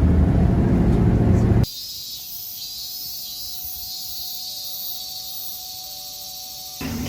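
A vehicle running with a low, steady rumble and hum, cut off abruptly about a second and a half in. What follows is a much quieter hiss with faint steady high tones, which changes abruptly again near the end.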